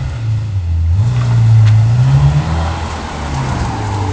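Ferrari 348's V8 engine revved in blips from idle: a short rev dropping back at the start, a longer one about a second in that climbs and falls away after about two and a half seconds, then a small blip near the end.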